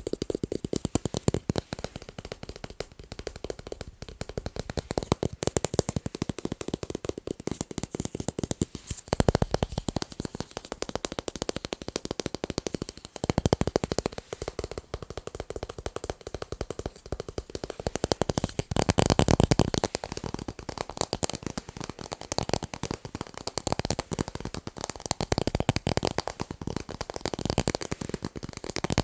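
Fast, continuous tapping on tape, a dense stream of quick clicks with no pause, growing louder and fuller in a few stretches.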